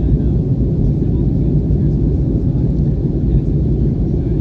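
Steady low rumble of an Airbus airliner in flight, heard from inside the passenger cabin: engine and airflow noise.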